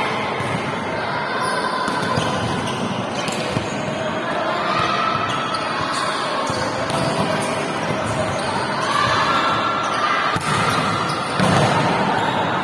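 A volleyball being struck and bouncing on a hard court, with a few sharp impacts over a steady background of voices.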